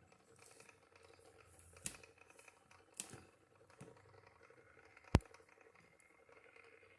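Scattered small clicks and taps of something being handled, the loudest a single sharp click about five seconds in.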